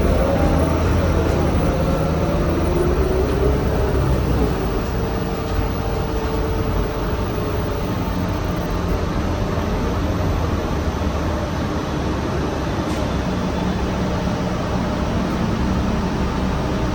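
City bus running, heard from inside: a steady low rumble and road noise, with a drivetrain whine that slides up and down in pitch during the first few seconds.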